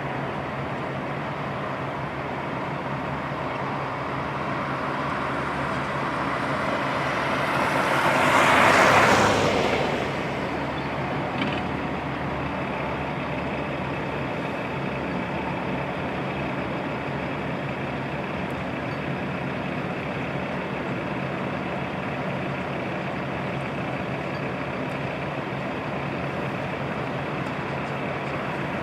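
Heavy truck diesel engines running steadily, with a louder rushing noise that swells and fades about eight to ten seconds in, and a brief click shortly after.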